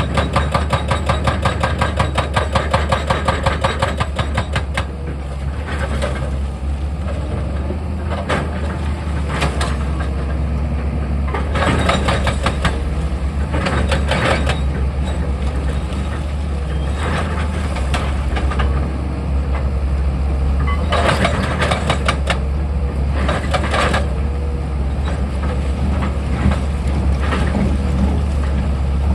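Excavator's diesel engine running with a steady low hum, overlaid by rapid percussive hammering from its rock-drilling attachment. The hammering is continuous for the first four seconds or so, then comes in short bursts every few seconds.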